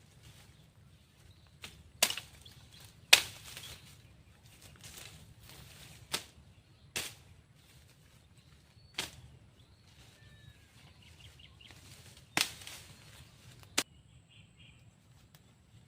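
Sharp knocks or strikes, about seven at uneven intervals, some with a short ringing tail, with a few faint bird chirps between them.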